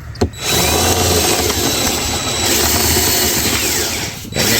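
Power drill drilling out the rivet heads on the aluminum strip that runs around a boat. It starts about half a second in, runs steadily, stops briefly near the end and starts again.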